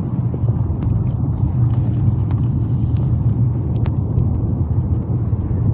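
Steady low rumble of a dog-drawn cart moving along a snowy trail, with a few faint clicks.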